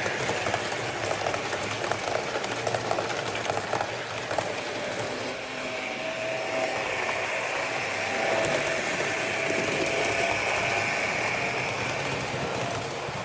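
H0-scale model train running on its track: the whine of a small electric motor, with quick clicking of the wheels over the rails through the first half and a steady higher whine from about halfway on.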